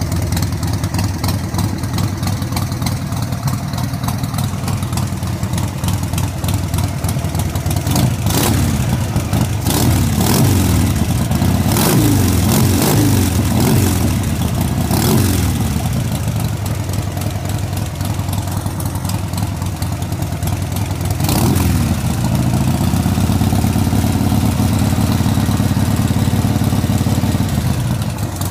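1999 Harley-Davidson Sportster 1200S's air-cooled V-twin idling, revved up and back down in a run of quick throttle blips starting about a third of the way in and once more about three quarters in. Near the end it holds at a slightly faster idle.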